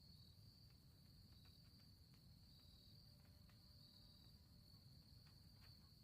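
Very faint night ambience of crickets making a steady high trill over a low breeze hiss.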